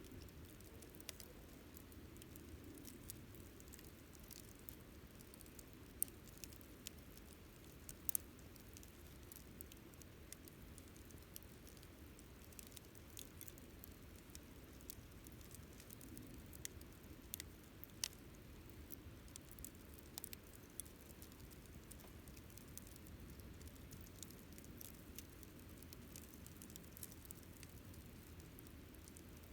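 Wood campfire crackling faintly: irregular sharp snaps and pops, a few louder than the rest, over a low soft rush from the burning fire.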